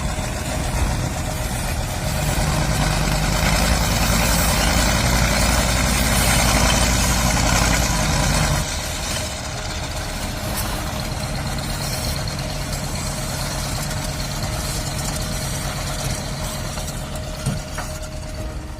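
A heavy vehicle's engine running steadily, with a thin steady tone held over it. The low engine sound drops noticeably about eight and a half seconds in.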